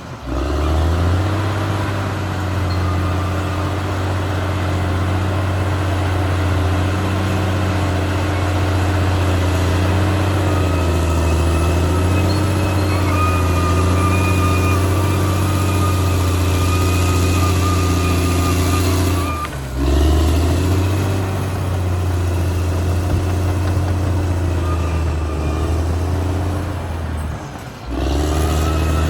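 Caterpillar D6R XL bulldozer's diesel engine running steadily at working speed, with a thin whine above the engine note. The sound drops away briefly twice, about two-thirds of the way through and near the end.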